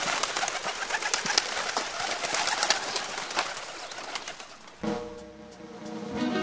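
Many birds chirping, a dense mix of short, sharp calls, fading out about five seconds in as guitar music begins.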